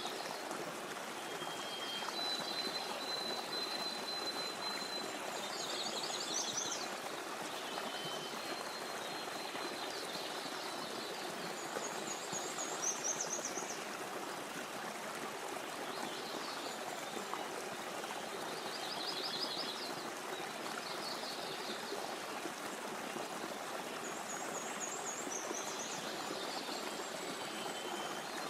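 Small stream running steadily over stones. High thin whistles and short quick trills come through every few seconds.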